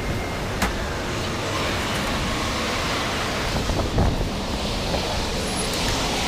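Steady rushing of an automatic car wash, water spray and air beating on the car, heard from inside the car, with a sharp click near the start and a brief low thump about four seconds in.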